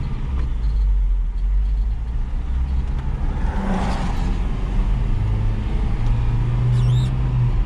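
Truck engine running as the truck pulls away, a low steady drone whose pitch rises over the last few seconds. The engine is running with its vacuum leak found and plugged. A short high squeak sounds near the end.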